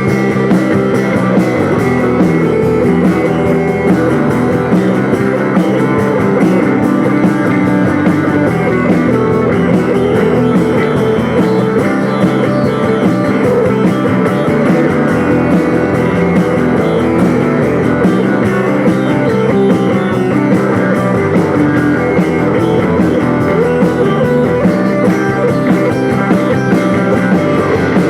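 Live rock band playing an instrumental section with electric guitars, loud and steady.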